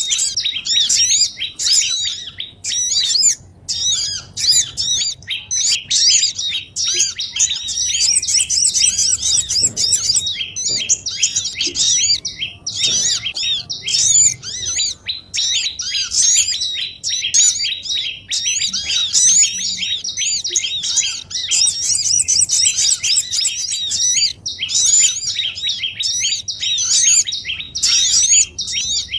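A dense, unbroken mass of rapid high chirps and twitters from many small songbirds, calling over one another with only brief lulls. It is a bird-lure track, used to call small wild birds down to a trap.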